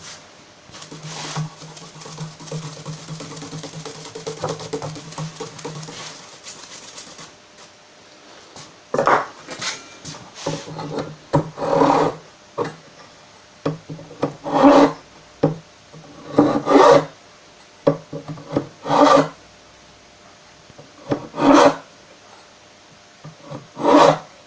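Triangular file rasping back and forth across the fret slots of a wooden guitar fretboard, cutting a small V-groove at each slot to guide the frets in straight. A few seconds of steady rubbing, then separate short strokes every two seconds or so.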